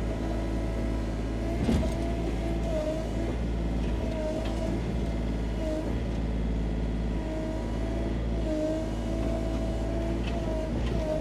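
Sany SY35U mini excavator's diesel engine running steadily, with a whine in its note that dips briefly over and over as the machine works under load. One sharp knock about two seconds in.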